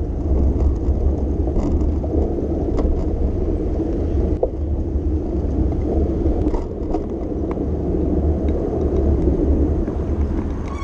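Steady low rumble of a bicycle ride along city streets, with traffic and the ride's own noise blended together, and a few faint clicks.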